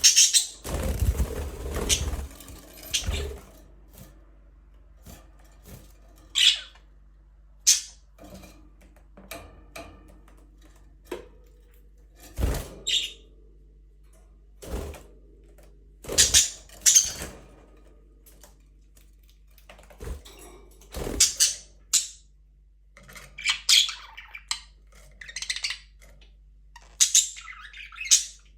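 Budgerigars giving short, high chirps every few seconds, coming closer together near the end. A few sharp knocks, one near the start and others about halfway through, stand out among the chirps.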